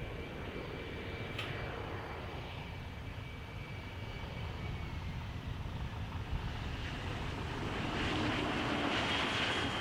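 Airliner engines running with a steady rushing noise and a thin whine. From about eight seconds in, a higher whine rises and the sound grows louder.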